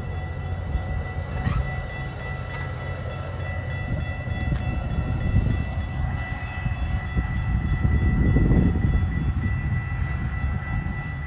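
Metra bilevel commuter train rolling past and pulling away, a steady low rumble of its cars on the rails that swells briefly near the end.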